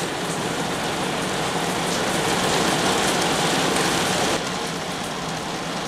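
Heavy rain falling steadily, an even hiss that eases slightly about four seconds in.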